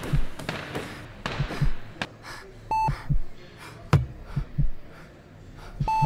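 Electronic heart-monitor beep, a short steady tone sounding twice about three seconds apart, over low paired heartbeat thumps and scattered sharp clicks.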